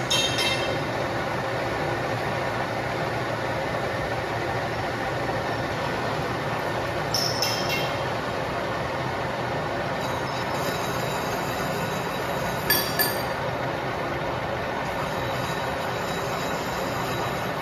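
Metal lathe running under a roughing cut on a marine boom bearing body, a steady machine noise. Brief high-pitched metallic squeals of the cutting tool come three times: at the start, about seven seconds in, and about thirteen seconds in.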